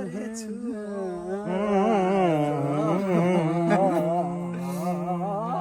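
Several voices singing and humming together without clear words, one holding a long steady low note under the others.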